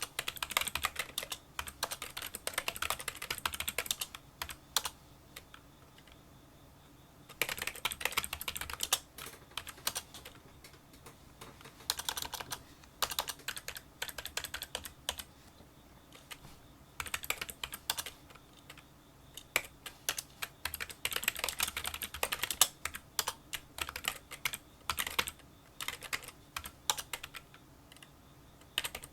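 Fast touch-typing on a Kinesis Freestyle split keyboard with membrane key switches: quick runs of small, light clicks, in bursts broken by pauses of a second or two.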